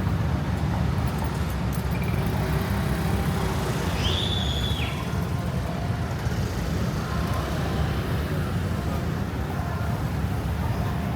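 Steady city street traffic: a continuous low rumble of passing cars and other vehicles. About four seconds in, a short high-pitched squeal rises and falls, under a second long.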